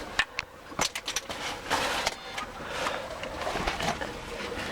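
Ice cracking and crunching in a quick irregular series of sharp snaps and clicks.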